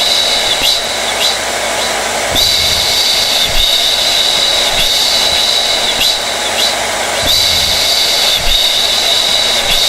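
Hair dryer running steadily: a continuous rush of blown air with a high motor whine and a low hum, the whine dipping briefly every second or so.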